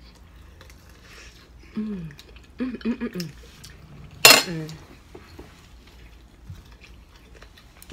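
Cutlery and dishes clinking lightly during a seafood boil meal, with a few short vocal sounds and one brief loud exclamation about four seconds in.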